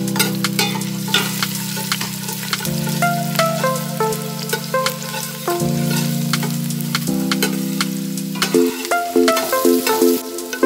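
Minced aromatics sizzling in hot oil in a stainless steel pot, stirred with a metal spoon that clicks and scrapes against the pot. Background music with sustained chords plays over it, the low chords giving way to repeated higher notes near the end.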